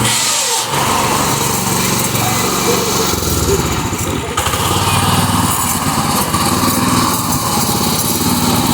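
Mini tractor's small engine running steadily.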